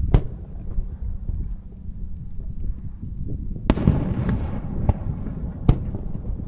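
Aerial fireworks shells bursting: four sharp bangs, the loudest about halfway through with a tail lasting under a second, over a steady low rumble.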